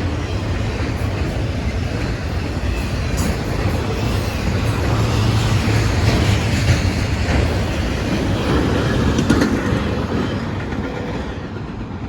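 Autorack freight cars rolling past, the wheels clacking over the rail joints in a steady loud rumble that eases off slightly near the end.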